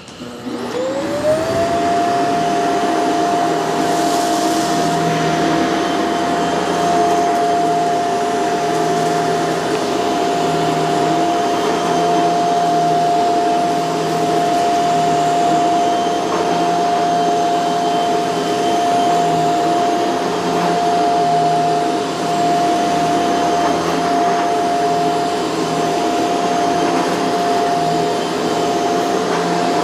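Shark CZ351 canister vacuum switching on, its motor rising within about a second to a steady high whine. It then runs steadily while it cleans a rug.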